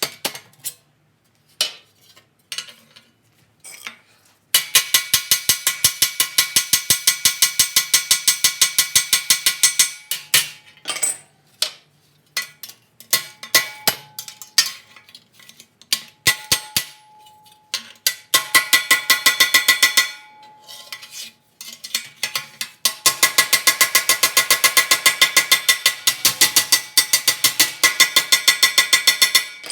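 Hand hammer blows on a sheet-steel patch panel, shaping the metal. The blows come in long fast runs of several per second, each ringing metallically, with scattered lighter taps between the runs.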